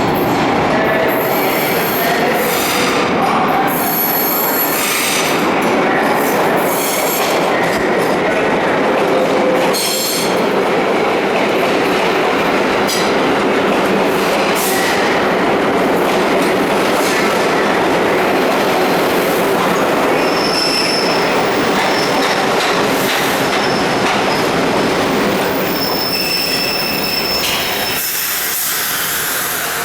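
Vintage R1–R9 'Arnine' subway train running into an underground station: clattering wheels over rail joints and loud rumbling wheel and rail noise, with high brake and wheel squeals in the second half as it slows, easing off near the end as it comes to a stop.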